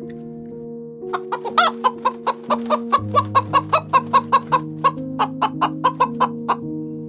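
A chicken clucking in a quick, even run of about four clucks a second, starting about a second in and stopping shortly before the end, over gentle background music.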